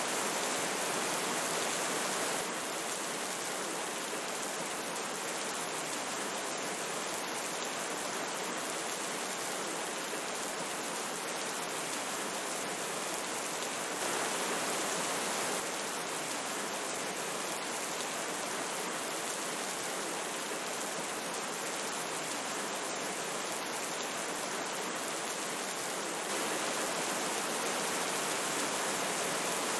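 Steady rush of a flowing river mixed with falling rain. The level steps up slightly for a moment about halfway through and again near the end.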